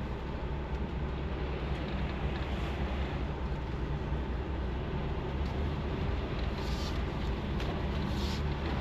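Semi-truck's diesel engine running steadily with road noise while driving, with two brief hisses near the end.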